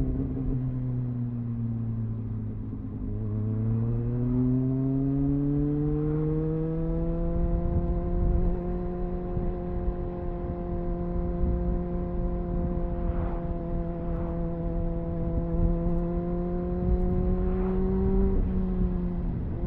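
Triumph Speed Four's 600cc inline-four engine through its stock exhaust, heard onboard while riding. The revs fall for about three seconds, climb as it accelerates, then hold steady at cruising speed, with a short dip in revs near the end.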